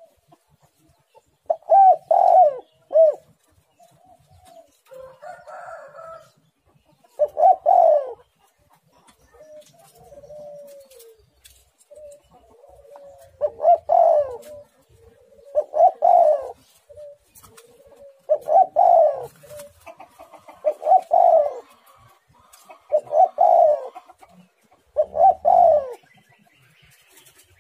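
Spotted dove (tekukur) cooing over and over: loud coo phrases come about every two to three seconds, with fainter coos in between.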